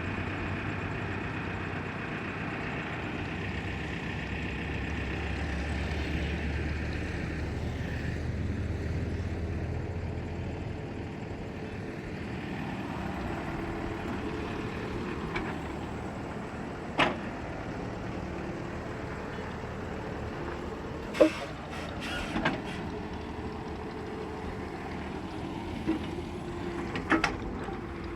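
Excavator diesel engine running steadily, with a deeper, louder rumble a few seconds in as it works under load. Several sharp knocks ring out in the second half.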